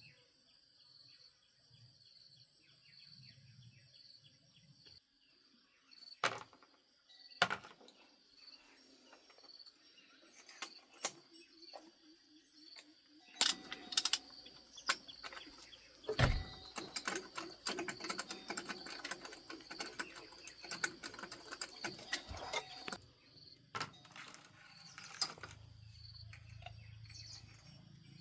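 Insects trill steadily in the background while tools and parts knock and clatter: a few sharp knocks, then about ten seconds of dense clicking and rattling with one heavy thud, and a low hum that starts near the end.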